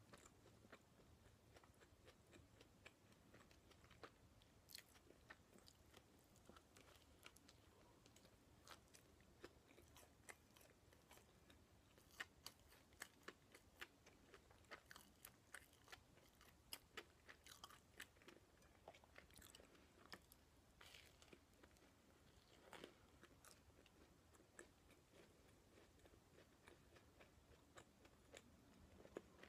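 Faint close-up chewing of potato salad toast: soft, wet mouth clicks and small crunches, coming thickest in the middle.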